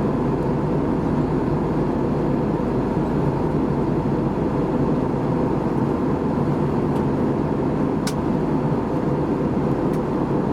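Steady cabin noise inside an Airbus A320 in descent: an even, low rush of engine drone and airflow past the fuselage. A few faint clicks come in the second half.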